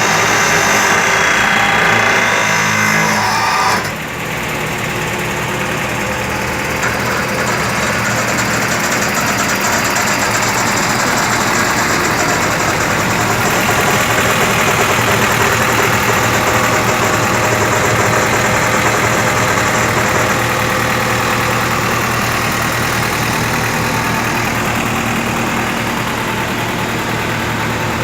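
Engine idling steadily. A louder, brighter noise overlays it for the first four seconds and then cuts off suddenly.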